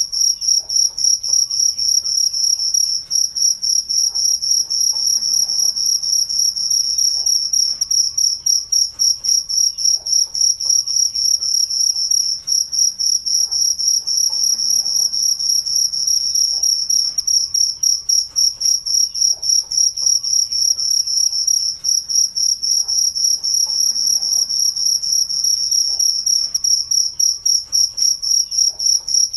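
Crickets chirping: a continuous high-pitched trill in rapid, even pulses that never lets up.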